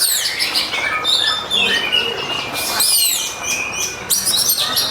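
An oriental magpie-robin (kacer) singing a loud, rapid run of varied whistles and falling sweeps with barely a pause. It is the aggressive 'fighting' song used to provoke other males into singing.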